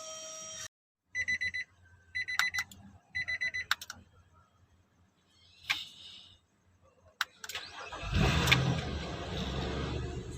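A chime sounds three short bursts of rapid beeps, a few clicks follow, and then the Nissan Pathfinder's engine cranks and catches about eight seconds in, running steadily on a hooked-up battery after its no-crank, no-start fault was bypassed.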